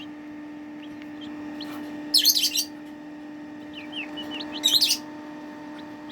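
Young chicks (Serama, Silkie and Buff Brahma) peeping: two loud bursts of rapid high peeps, about two seconds in and again near five seconds, with softer scattered peeps between. A steady low hum runs underneath.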